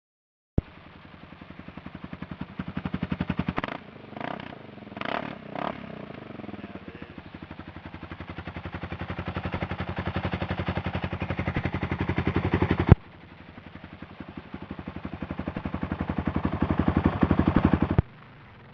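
Suzuki DR650's single-cylinder four-stroke engine under throttle, its rapid pulsing getting louder as it pulls. The sound builds up in several stretches and breaks off abruptly about 13 s and 18 s in.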